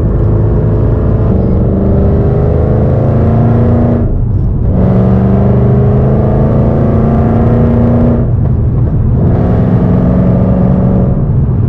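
Shelby GT500's supercharged V8 accelerating hard through the gears: the engine pitch climbs, breaks and drops at an upshift about four seconds in, climbs again, drops at a second upshift about eight seconds in, then holds fairly steady.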